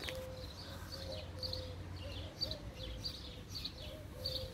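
Small birds chirping in short, repeated calls, faint, over a soft steady tone.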